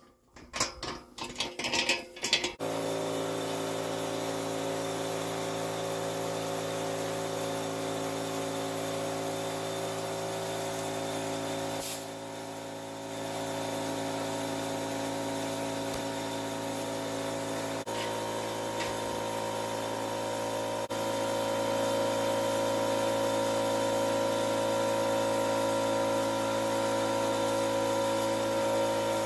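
A few clanks, then a motor-driven machine starts abruptly and hums at a steady pitch. It dips briefly about halfway through and runs somewhat louder for the last third.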